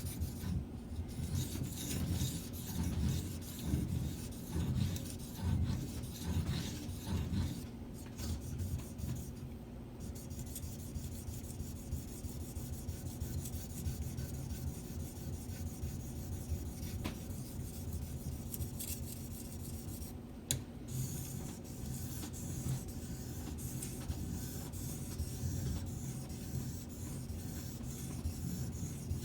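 Steel knife blade stroked repeatedly across a Shapton Pro waterstone, making a continuous gritty rasping in back-and-forth strokes.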